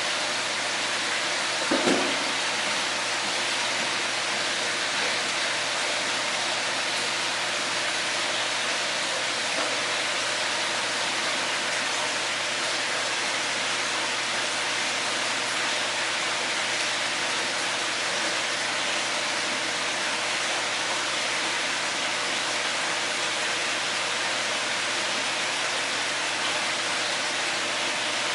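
Steady rushing noise, even and unchanging, with a faint low hum under it and a short knock about two seconds in.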